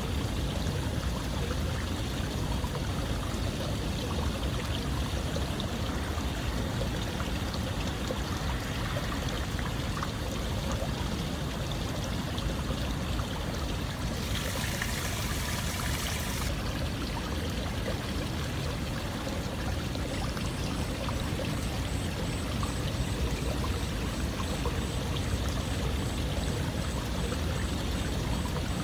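Running water flowing steadily, a continuous even rush, turning briefly hissier about halfway through.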